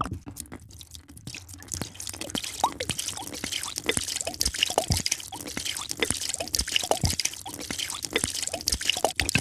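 A drink being poured, with many small drips and plops and a steady fine crackle of liquid.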